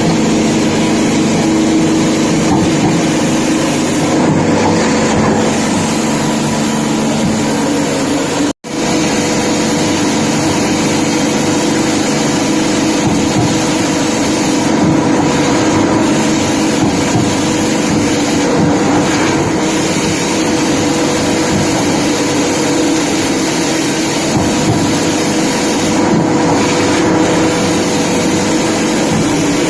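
Automatic fish gutting machine running: a steady mechanical hum with a constant whine over a noisy clatter, cut off for an instant about eight and a half seconds in.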